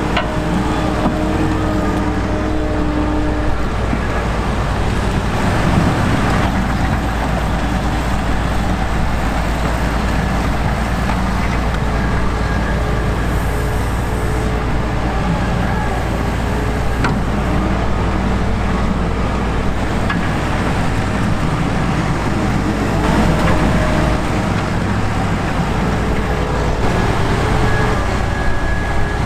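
Heavy sugar beet harvesting and loading machinery running steadily, with engine drone and the noise of the machinery working.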